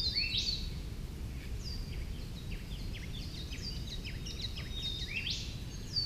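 Wild birds calling: a loud rising call just after the start and again about five seconds in, among many short high chirps and quick falling notes. A steady low background noise runs underneath.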